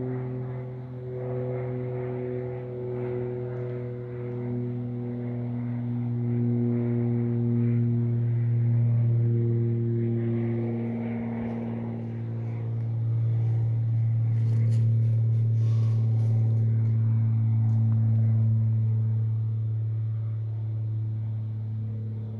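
A low-flying airplane droning steadily overhead. Its higher tones slowly fall in pitch as it passes, and it is loudest in the second half.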